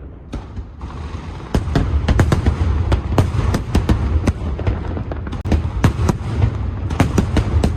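Fireworks display: a rapid barrage of sharp bangs and crackles over a continuous low rumble, growing much louder about one and a half seconds in.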